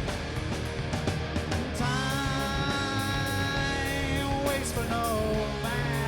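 Live rock band (electric guitars, bass and drums) playing an instrumental passage with steady drum hits. About two seconds in, a long held melodic note comes in above the band, and it bends up and down in pitch near the end.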